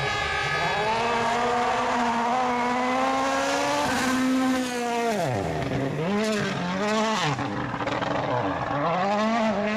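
A World Rally Car's turbocharged four-cylinder engine at full throttle. Its pitch climbs steadily for about four seconds and drops sharply about five seconds in. A few quick revs up and down follow before it climbs again near the end.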